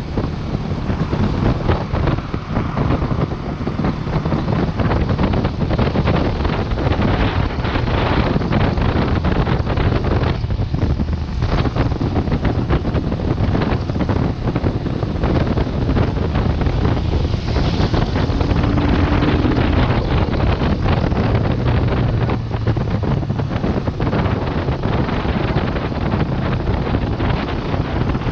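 Wind rushing and buffeting over the microphone of a motorcycle-mounted action camera, with the Vento Lucky 7's engine running underneath.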